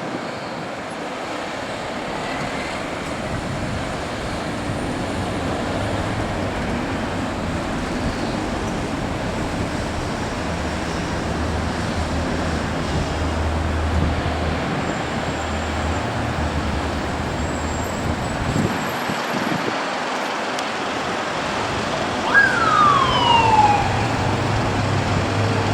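Steady wind and road noise from travelling in traffic, with a low engine hum. Near the end, a police motorcycle siren starts with a single falling wail as emergency running begins.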